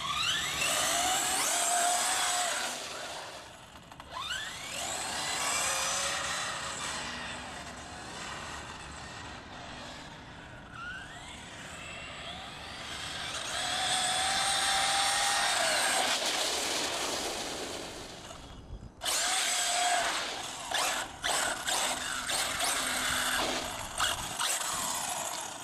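Electric RC monster truck's Castle Creations Mamba Monster 2200kv brushless motor on a 6S LiPo whining up in pitch as the truck accelerates, three times, over a steady rush of tyre noise on asphalt. From about two-thirds of the way through, a run of sharp clicks and knocks.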